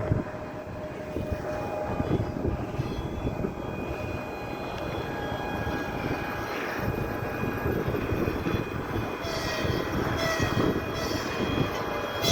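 A train passing, with a steady, heavy rumble of rolling stock on the rails. Short high-pitched sounds come in a few times in the last three seconds.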